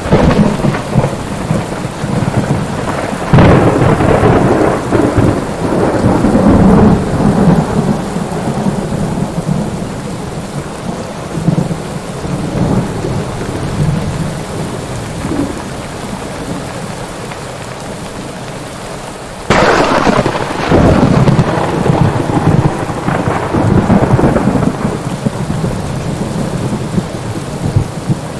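Thunderstorm with steady rain. Thunder rumbles through the first several seconds, then eases to rain alone. About two-thirds of the way through, a sudden loud thunderclap breaks in and rolls on in long rumbles.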